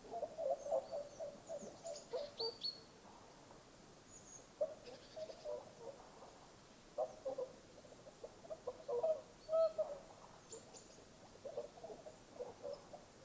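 Birds calling in a natural setting: short, low call notes in irregular clusters, with a few thin, high chirps from smaller birds.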